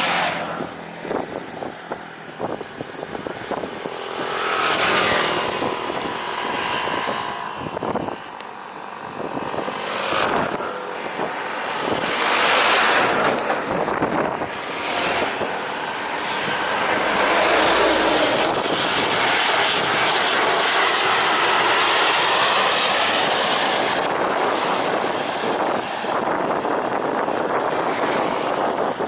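Airliner engines on a landing approach: a loud roar that swells and fades and is loudest through the second half, with a whining tone that shifts in pitch early on.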